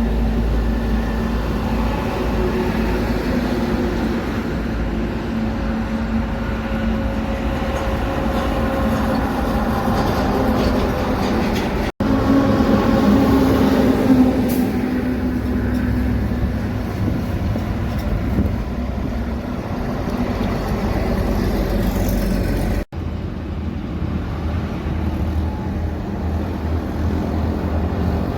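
Heavy road vehicles running by, a steady engine drone over road rumble. The sound breaks off briefly twice where the footage is cut.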